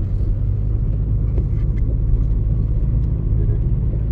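Steady low road-and-engine drone inside a moving car's cabin.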